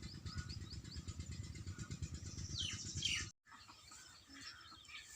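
Birds chirping, with quick repeated short chirps and one loud falling call just before three seconds in, over a low rumble. The sound cuts off abruptly and gives way to fainter scattered bird calls.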